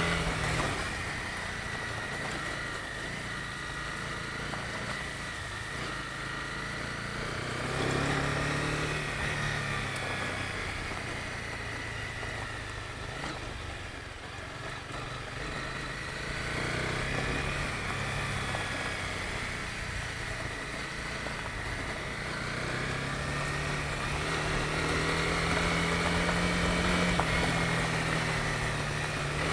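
Honda CB250R single-cylinder engine under way, its pitch rising and falling with the throttle over a hiss of road and tyre noise. It eases off for a few seconds mid-way, then pulls up to higher revs near the end.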